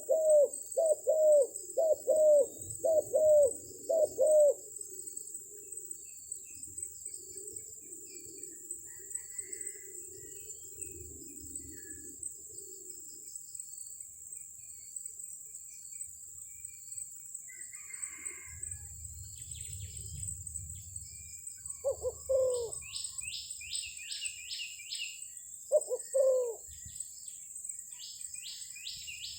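Spotted doves cooing: a quick series of low rhythmic coos at the start, then short coo phrases again near the end. Another small bird's rapid high chirping trills come in twice in the second half. A steady high-pitched insect drone runs underneath.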